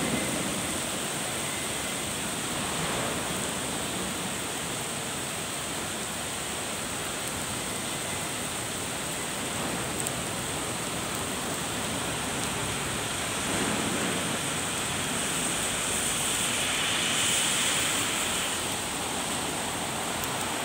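Steady rain falling on pavement, foliage and drain grates, an even hiss with no break, swelling slightly a couple of times.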